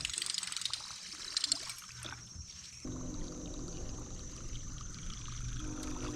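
A fishing reel being cranked fast, with water splashing and a quick run of clicks. About three seconds in, a steady low hum starts and carries on.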